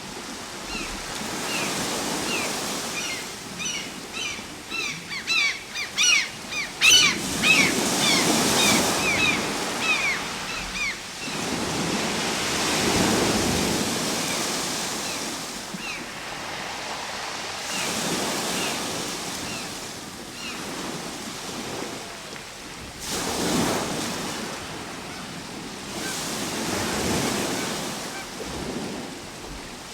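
Ocean surf: waves breaking and washing in, swelling and easing every few seconds. Over the first third, a flurry of short, high calls repeats rapidly, thickest about halfway through that stretch.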